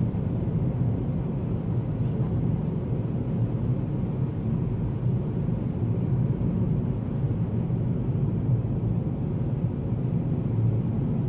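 Steady low rumble of road and engine noise inside a moving car's cabin, with tyres running over a snowy road.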